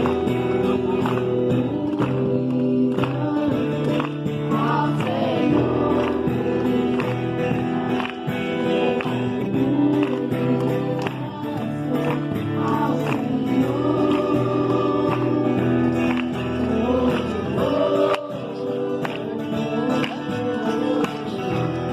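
Christian worship music: voices singing over a band with sustained bass notes and a steady beat.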